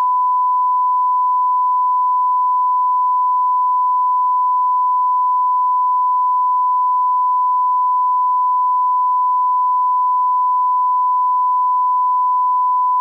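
Steady 1 kHz electronic test tone, a single unbroken pure pitch, of the kind laid at the head of a video master for level line-up.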